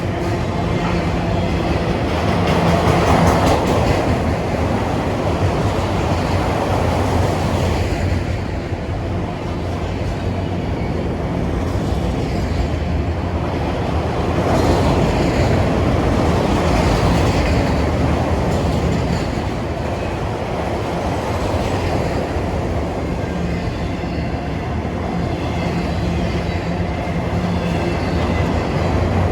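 Norfolk Southern freight train's cars rolling past, a steady rumble of steel wheels on the rails that swells and eases a little as the cars go by.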